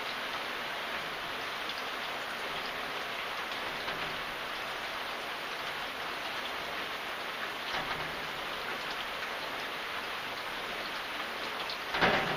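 Steady rain falling and pattering on surfaces, with a brief louder thump near the end.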